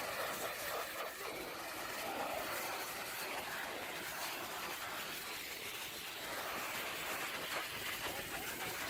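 A pressure-washer jet spraying water against a truck: a steady, rushing hiss that swells and eases slightly as the spray moves.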